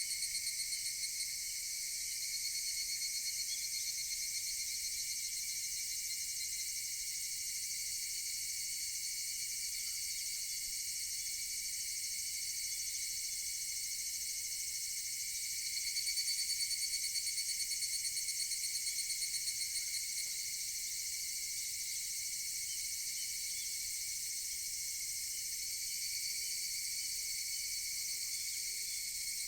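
Chorus of higurashi (evening cicadas) trilling in steady, rapidly pulsing high-pitched calls. A nearer call swells louder for a few seconds about halfway through, then fades.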